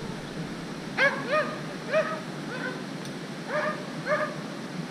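A dog whining and yelping in short, high cries, about six of them in quick pairs, over the steady rush of a waterfall. The dog is stranded below a slippery ledge it cannot climb.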